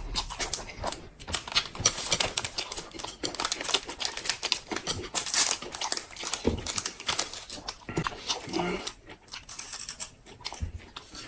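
Close-up eating sounds: quick, irregular smacking and chewing clicks.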